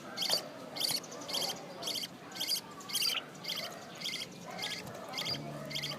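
Baby birds chirping: short, high-pitched calls repeated about twice a second.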